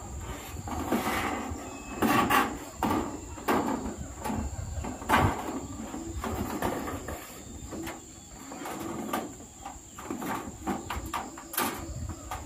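Irregular knocks, clatter and scraping of hands-on roofing work with corrugated zinc sheets. Several sharp hits come a second or so apart, with a quicker run of them near the end.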